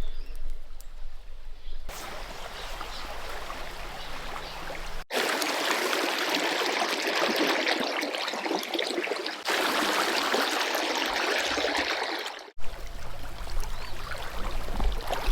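Trout stream water running and rippling, a steady rush that changes suddenly several times, at about 2, 5, 9.5 and 12.5 seconds in, as the clips cut.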